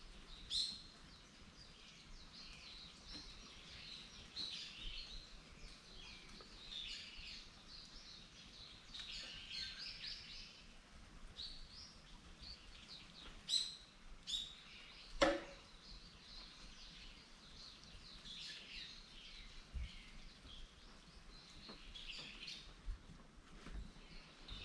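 Small birds chirping and calling over and over, short high calls coming in clusters, with a few sharp clicks, the loudest a little past the middle.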